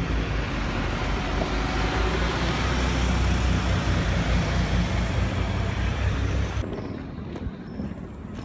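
Wind buffeting the camera microphone over street traffic noise, a heavy low rumble with a rushing hiss. It cuts off suddenly about two seconds before the end, leaving a much quieter background with a few light ticks.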